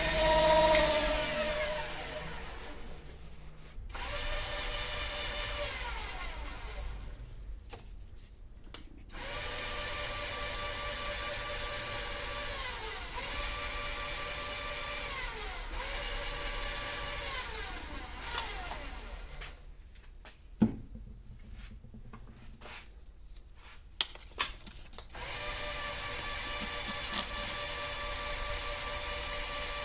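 An electric power tool motor running with a steady whine, its pitch dipping briefly a few times. It winds down and restarts three times, with a couple of sharp clicks during the longest stop.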